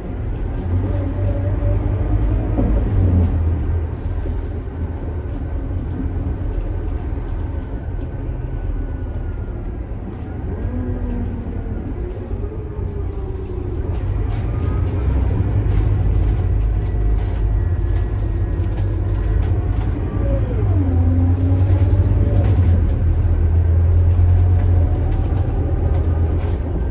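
Scania DC9 five-cylinder turbo-diesel bus engine and ZF-Ecomat automatic transmission running under way: a steady low rumble with an engine note that rises and falls several times, growing louder in the second half.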